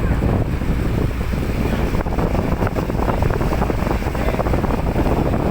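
Wind rushing steadily over the microphone on a moving boat, with the boat's running noise and water beneath it.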